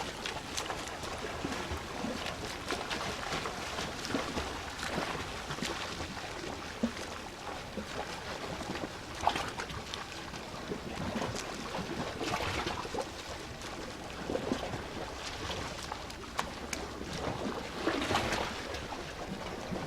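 Sea water lapping and sloshing at the shore, with small scattered splashes.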